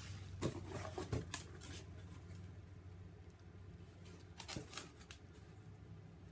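A cardboard package being opened and handled by hand: scattered light rustles and clicks, a few in the first two seconds and a short cluster past the middle, over a faint steady hum.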